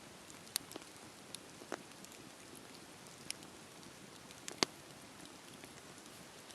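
Wood bonfire crackling: a faint steady hiss with scattered sharp pops at irregular intervals, the loudest about four and a half seconds in.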